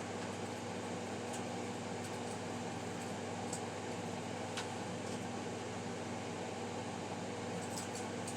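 Steady mechanical hum with an even hiss and a constant low tone, broken by a few faint, scattered clicks.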